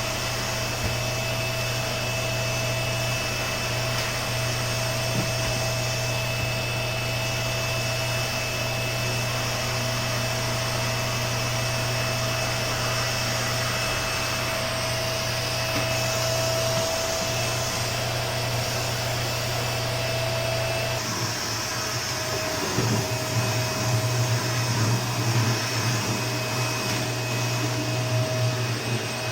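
Vacuum cleaner running steadily with a constant motor whine. About two-thirds of the way through, the sound turns uneven, rising and falling as the nozzle is worked over a surface.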